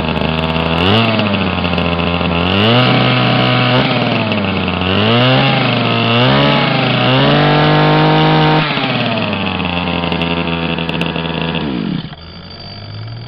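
Small two-stroke engine, thought to be off a leaf blower, revved up and back down several times, then settling to a steady idle. The sound drops off sharply near the end.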